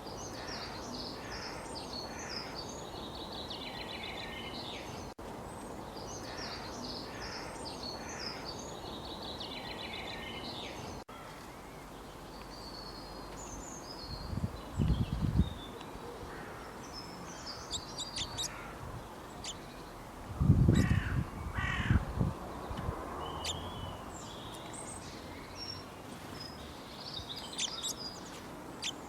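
Wild birds chirping and singing in repeated high phrases over a steady outdoor background hiss. Through the middle a few louder, lower, rougher sounds stand out, the loudest of them about two-thirds of the way through.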